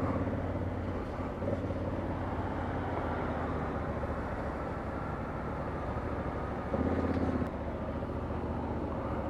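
Motorcycle engine running at low, steady revs while riding slowly in traffic, with a short louder spell about two-thirds of the way through.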